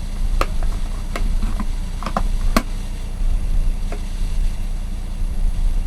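Electric kettle just switched on, its heating element warming the water with a steady low rumble. A few sharp ticks and clicks come through it, the loudest about two and a half seconds in. The sound shows that the kettle, its power button repaired, is heating.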